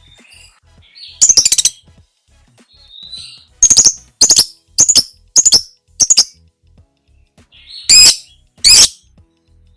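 Lovebird giving shrill, piercing calls: a rapid chattering burst about a second in, then five sharp screeches spaced just over half a second apart, and two longer, loud screeches near the end.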